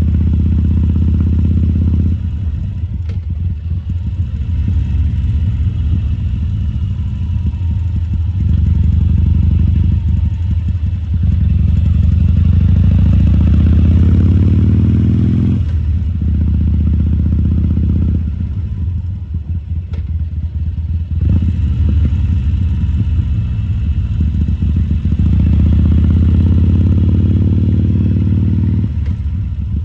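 Harley-Davidson Sportster XL1200C's air-cooled V-twin running at low speed with the throttle worked on and off. Its pitch rises gradually twice and falls back to a low idle between pulls.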